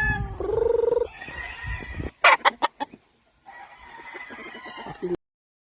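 Chickens calling, with a rooster's drawn-out crow ending in the first second, then a quick run of several loud, sharp knocks a little after two seconds in and quieter clucking after that. The sound cuts off abruptly about five seconds in.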